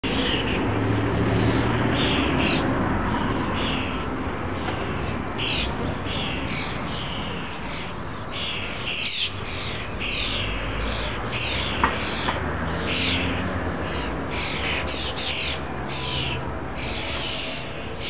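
Garden birds calling: a run of short, high, downward-slurred notes, one or two a second, over a steady low rumble.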